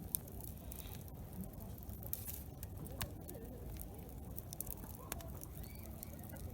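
Wood campfire crackling, with scattered sharp pops and snaps, over a low murmur of distant voices.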